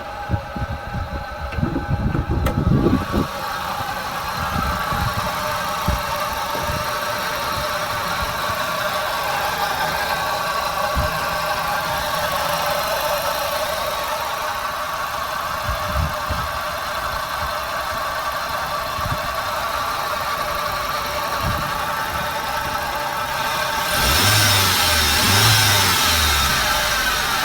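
Hyundai i10/Santro engine running at idle with a steady whine over it, typical of a worn timing belt tensioner bearing. There are a few low knocks in the first seconds, and the hiss grows louder near the end.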